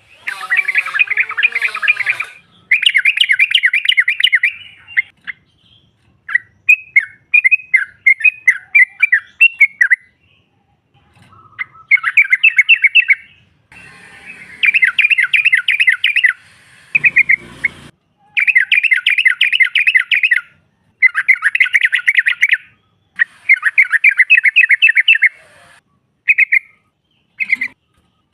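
Yellow-vented bulbul (trucuk) chattering: repeated bouts of rapid, closely packed notes, each about one to two seconds long, with short pauses between them. A brief noisy burst comes about two-thirds of the way through.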